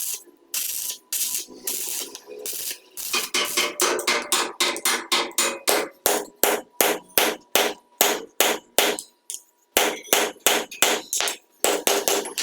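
A hammer striking a metal end fitting on a Fiat tractor in a steady series of sharp blows, about three a second, with a brief pause about nine seconds in.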